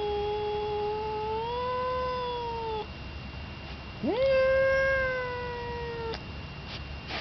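A domestic cat yowling: two long, drawn-out caterwauls. The first is held steady and lifts in pitch before breaking off, and the second starts about four seconds in with a sharp upward swoop and is held for about two seconds. It is a territorial threat yowl aimed at a rival tomcat.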